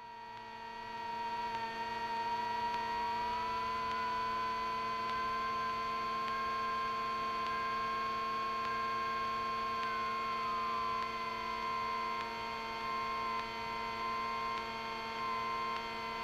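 Cockpit sound of a GA-7 Cougar light twin taxiing after landing, heard through the headset intercom: a steady electrical hum with whining tones. One whine rises in pitch about three seconds in and falls back about eleven seconds in as engine speed changes.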